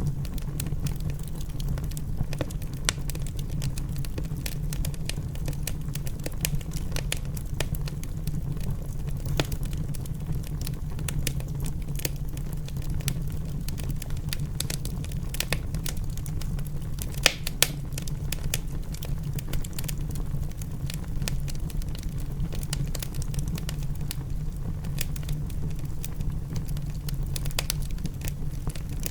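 Wood fire crackling in a fireplace, with scattered sharp pops over a steady low rumble; two louder pops a little past halfway.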